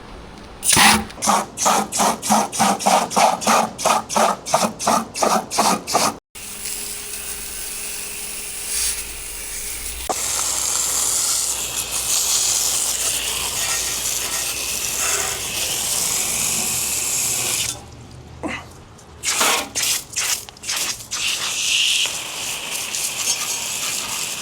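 Water spraying onto a motorcycle during a wash. It opens with a quick run of short squirts, about four a second. After a cut, a long steady hiss of spray follows. Another short run of squirts comes near the end.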